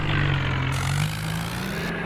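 Tractor diesel engine running under throttle, its pitch dipping slightly and then rising again about a second and a half in.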